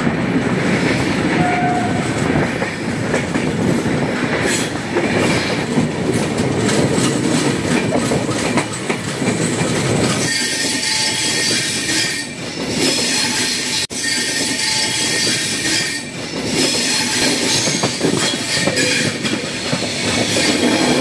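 Express train's coach wheels running over the track, heard from an open coach doorway: a steady rumble with a regular clickety-clack over the rail joints. From about halfway the sound turns brighter and a high steady squeal from the wheels comes and goes, as the train runs in towards a station.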